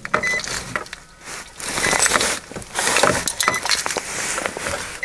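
Clinking and rustling of keys and handling in a car, with a short high beep repeating about every second and a half, typical of a car's key-in-ignition warning chime.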